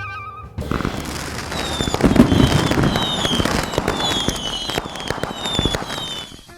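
Dense crackling and popping with many sharp cracks, overlaid by short falling whistles that repeat about twice a second. It starts suddenly about half a second in and cuts off just before the end.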